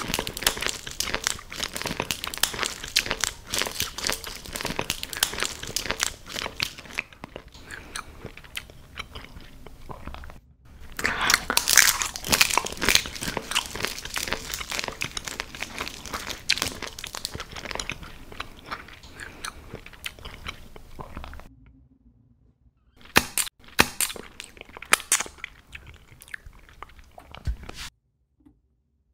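Close-miked eating sounds: crisp crunching and chewing. They come in dense runs with a short break about a third of the way through and a longer one about three-quarters through, then stop just before the end.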